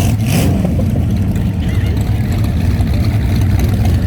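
Engine of a parade car running low and steady close by. A brief hiss about a third of a second in.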